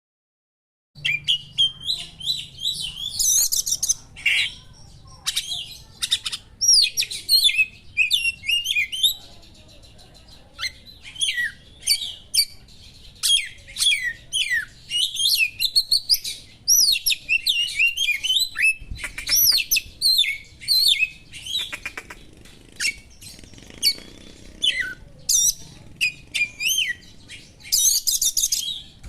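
Oriental magpie-robin (kacer) singing a fast, varied song of whistles and sharp chattering phrases full of mimicked small-bird calls, starting about a second in.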